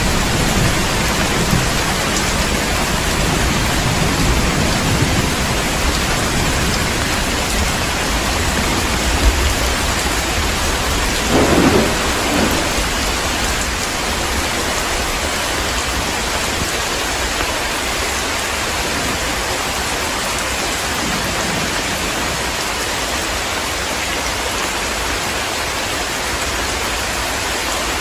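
Heavy rain pouring steadily in a thunderstorm, with low thunder rumbling in the first few seconds and a louder thunderclap about eleven and a half seconds in; after that the thunder dies away and only the rain goes on.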